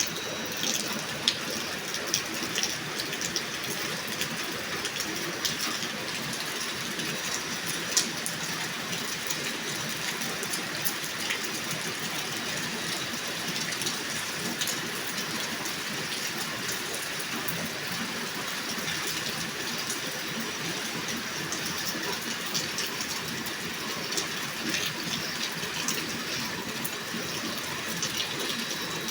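Steady rain falling: an even hiss with scattered sharp taps of drops striking.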